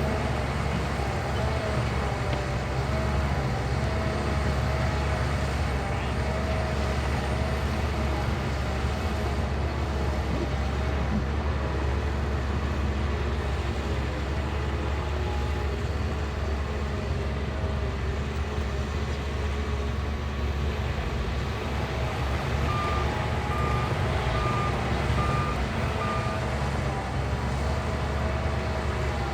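Shantui bulldozer's diesel engine running steadily at work, with a backup alarm beeping about six times near the end as the machine reverses.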